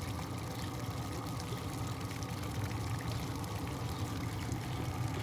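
Steady wind rumble buffeting the microphone outdoors, a continuous low rushing noise.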